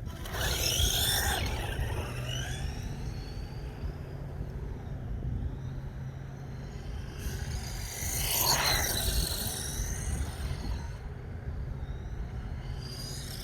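Electric RC truck driving: a steady motor hum with tyre noise, and two louder spells, about half a second in and again around eight seconds, where the motor's pitch glides up and down as it speeds up and slows.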